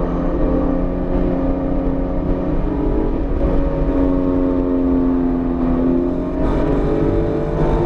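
BMW E46 M3's S54 inline-six, freshly rebuilt and still being broken in, running under load on track. The engine note holds fairly steady for about six seconds, then climbs again as the car accelerates.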